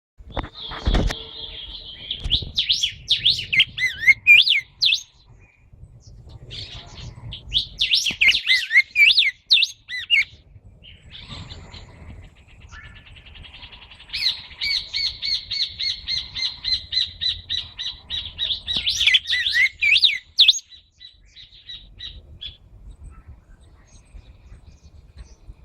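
Pet songbirds singing in three bouts of quick warbled phrases, the last a long, fast, even trill, with a single knock about a second in.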